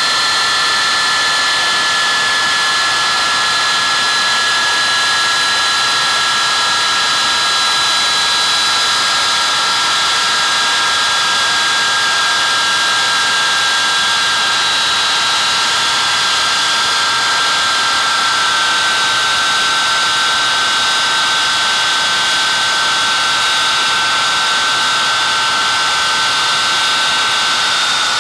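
Avro Vulcan XM655's four Rolls-Royce Olympus turbojets running, a loud steady jet noise with high whining tones that drift slowly down in pitch.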